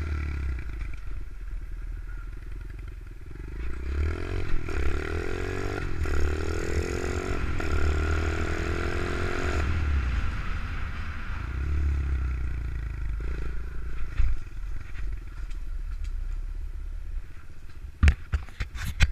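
Pit bike engine running and revving, its pitch climbing in several pulls from about four to ten seconds in before settling lower. A few sharp knocks near the end.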